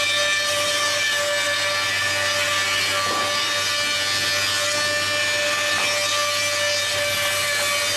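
Goodtek GT-635ARD double-sided wood planer running steadily: a constant whine over a broad, even hiss.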